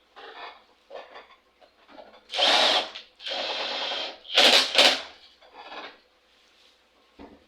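Cordless drill-driver running in three short spins about two seconds in, most likely driving the air filter assembly's fasteners back in. Quieter clicks and rubbing from parts being handled come before and after, and there is a single knock near the end.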